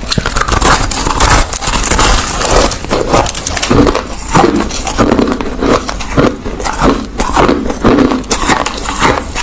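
A person chewing crushed ice close to the microphone: loud, rapid crunching and cracking that pulses with each bite and chew.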